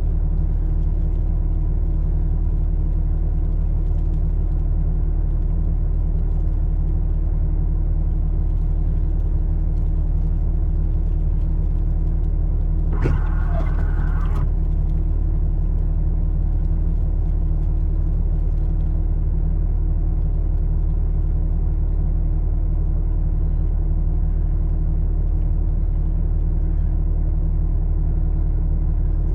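A vehicle engine idling steadily, heard from inside the cab, with a low hum. About halfway through there is a single click followed by a short higher tone lasting about a second.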